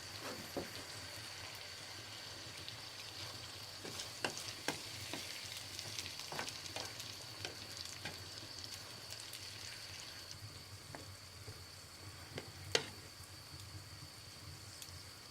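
Sizzling and crackling at a wood cooking fire: a steady hiss with irregular sharp pops, one louder crack near the end, over a thin steady high tone.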